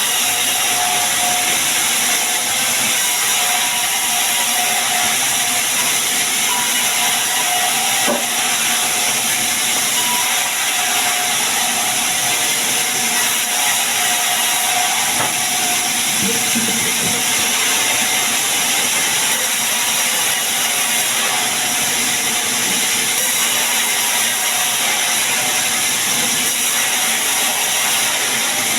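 Sawmill saw cutting sengon wood: a loud, steady hiss that runs on without a break.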